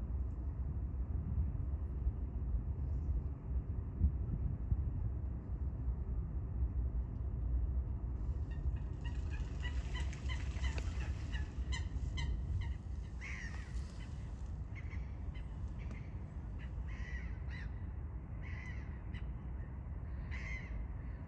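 Short, harsh bird calls repeated over and over from about eight seconds in, over a steady low rumble.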